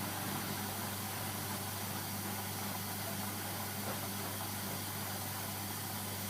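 Steady low hum under an even hiss, unchanging throughout, with no separate knocks or clicks.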